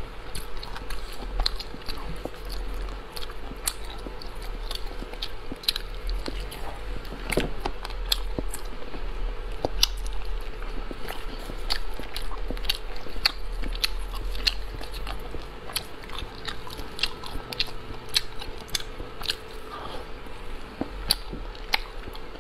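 Close-miked chewing of chewy, rubbery snail meat: wet mouth clicks and smacks coming several times a second throughout, over a faint steady hum.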